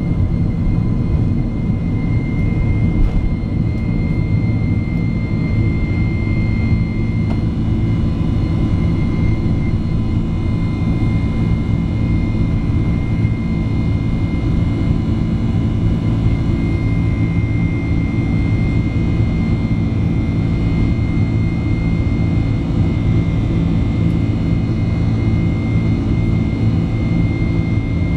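Boeing 767-300's jet engines and airflow heard inside the passenger cabin: a steady, loud low rumble with a faint, even high whine over it.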